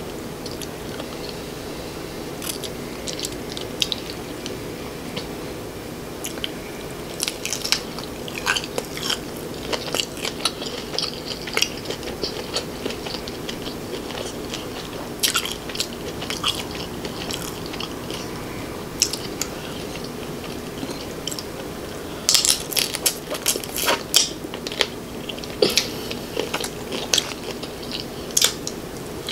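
Close-miked crunching bites and chewing of crisp battered fried prawns dipped in sauce, with bursts of sharp crackly crunches, thickest in two spells in the middle and near the end.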